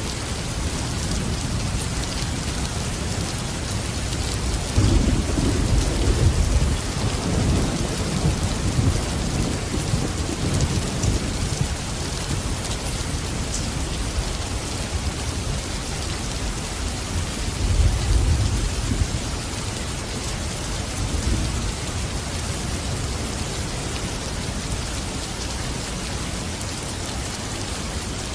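Steady, heavy rain with thunder rumbling low twice: a longer roll about five seconds in and a shorter one a little past the middle.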